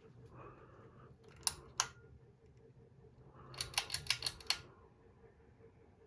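Harbor Breeze Notus ceiling fan humming faintly and steadily. Sharp clicks are the loudest sound: two about a second and a half in, then a quick run of about six near the middle.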